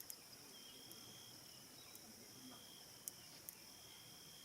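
Faint evening cricket chorus: a steady high-pitched trill with a second, lower trill that comes and goes in short stretches, and a few sharp clicks.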